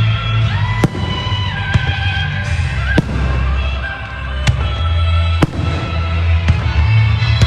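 Fireworks bursting in a pyromusical display: about five sharp bangs, roughly a second apart, over loud music with a held melody and heavy bass.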